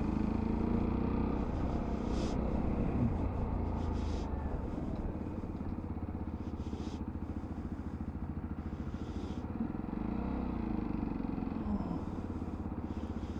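Small motorcycle being ridden: steady engine and road rumble with wind noise on the microphone, the engine note rising and falling about ten seconds in.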